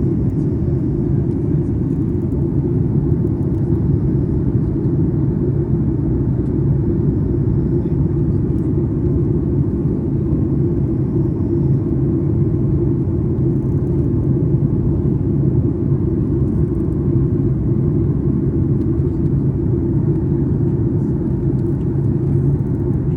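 Steady low cabin rumble inside a Boeing 737 MAX 8 airliner, its engines running, heard from a passenger seat.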